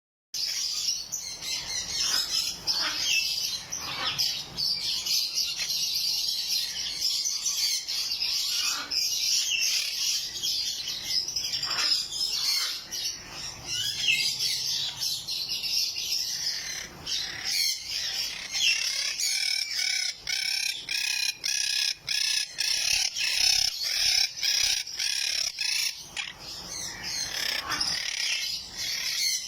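Blue monk parakeets chattering, a dense stream of high, rapid chirps and calls that never lets up.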